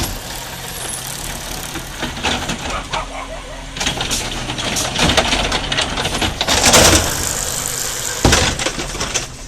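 Garbage truck engine running steadily, with a series of knocks and clatters and a louder rush of noise about seven seconds in.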